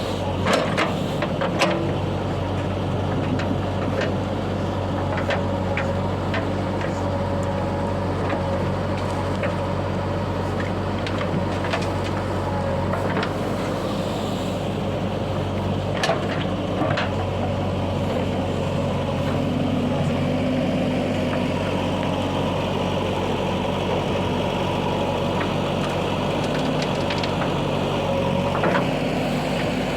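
Heavy diesel engines of a backhoe loader and a tractor running steadily during loading, with a few short knocks.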